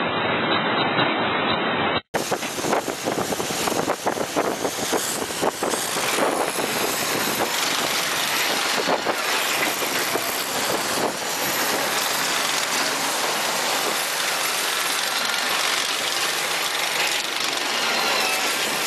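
Heavy machinery engine running steadily with dense mechanical noise, after a brief dropout about two seconds in.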